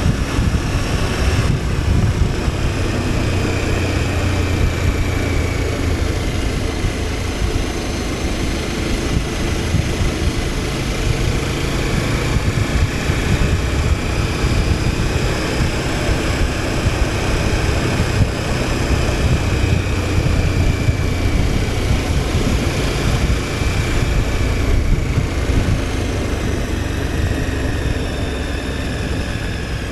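KTM 1290 Super Adventure S's V-twin engine running steadily while the motorcycle is ridden along the road, its pitch drifting gently up and down.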